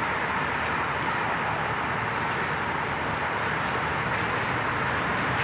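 Subway work train moving along an elevated bridge track, heard as a steady rumble blended with passing road traffic.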